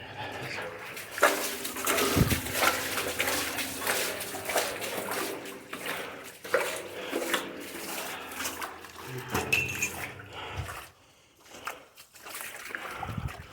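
Water splashing and trickling, with many short splashes and knocks, quieter for a moment near the end.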